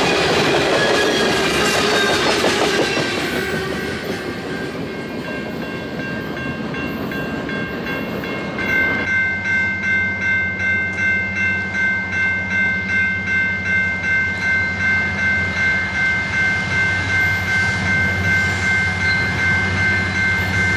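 A train passing close by: loud rolling wheel and car noise at first, easing off after a few seconds. From about nine seconds in there is a steady high ringing over a low hum, pulsing about twice a second.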